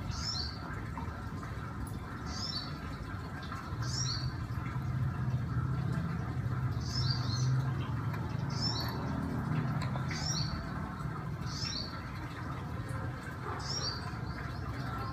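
A small bird chirping repeatedly: short clusters of two or three high notes, one every second or two, over a low steady hum that grows a little stronger about four seconds in.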